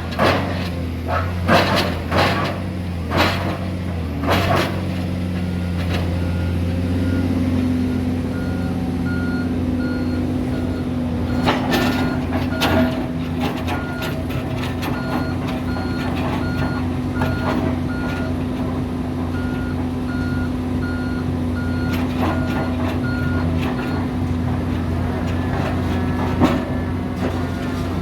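Heavy diesel construction machinery running steadily while a reversing alarm beeps at an even pace from about a third of the way in until near the end. Sharp metallic knocks and clanks come in the first few seconds and again around the middle.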